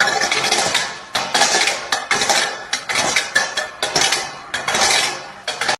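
Repeated clattering and clinking of small hard objects, a rapid jumble of sharp knocks that keeps up with short lulls.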